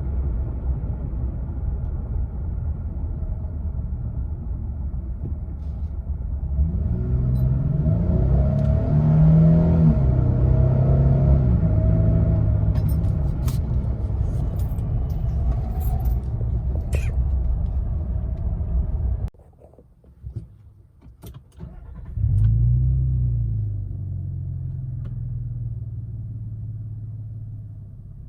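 2022 Nissan Frontier's 3.8-litre V6 exhaust idling, then revving up and easing back down. After an abrupt cut about nineteen seconds in and a short quieter stretch with a few clicks, a single quick rev settles back to a steady idle.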